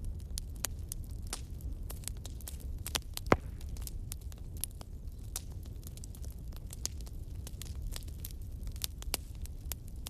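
Fireplace fire crackling, with irregular sharp pops over a low steady rumble; one pop about three seconds in is much louder than the rest.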